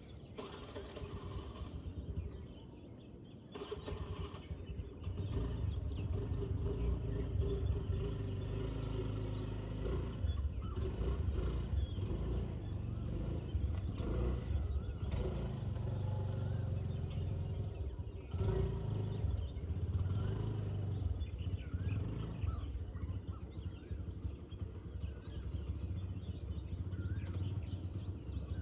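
Outdoor forest ambience in which a low, uneven rumble sets in about four seconds in and continues, with a steady high tone throughout and faint bird calls above.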